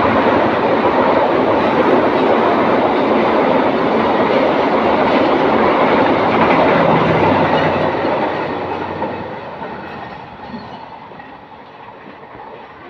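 Diesel-hauled passenger train passing at speed, its coaches' wheels running over the track. Loud and steady for about eight seconds, then fading as the train moves away.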